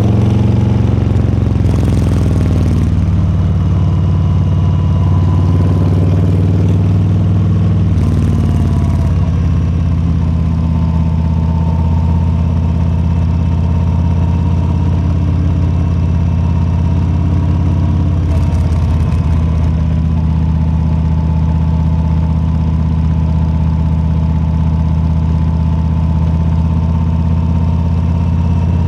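Harley-Davidson Low Rider S's Milwaukee-Eight 117 V-twin running on the move, its pitch shifting up and down over the first several seconds, then holding steady at a constant road speed.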